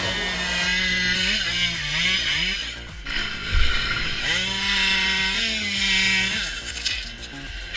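Two-stroke chainsaw cutting wood, its engine note rising and falling as it is revved and held at full throttle. A heavy thump comes about halfway through.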